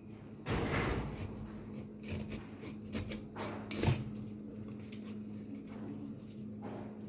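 Kitchen handling noises: a short rustling or scraping swell about half a second in, then scattered clicks and knocks of utensils and containers, the sharpest about four seconds in, over a steady low hum.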